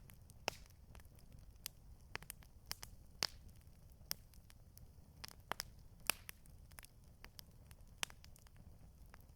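Campfire crackling: irregular sharp pops and snaps of burning wood, a few louder ones scattered through, over a faint steady low rumble.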